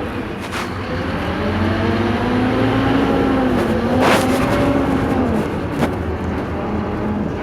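Scania K230 city bus engine running under load with its ZF automatic gearbox: the engine note climbs, holds, then drops about five and a half seconds in. There are a few sharp knocks or rattles, the loudest about four seconds in.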